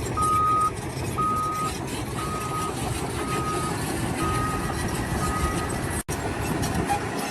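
A heavy vehicle's reversing alarm beeping, six steady single-tone beeps about once a second that grow fainter, over engine rumble and site noise. The sound drops out for an instant about six seconds in, and the rumble carries on after.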